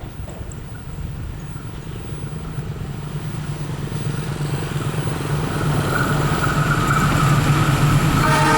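Diesel locomotive approaching, its engine drone growing steadily louder, with a horn tone coming in near the end.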